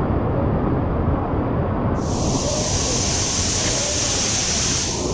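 Waterfall: a steady rush of falling water, swollen by heavy rain. A separate high hiss joins abruptly about two seconds in and fades near the end.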